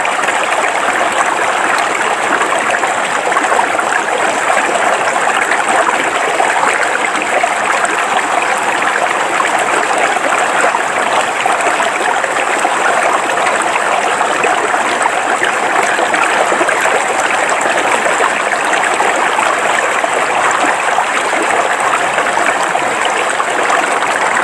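River water flowing steadily over rocks, a continuous even rushing and burbling.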